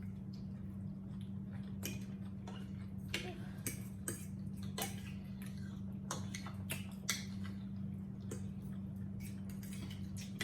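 Scattered small clicks and clinks of cutlery on plates during a meal, irregular and a second or so apart, over a steady low hum.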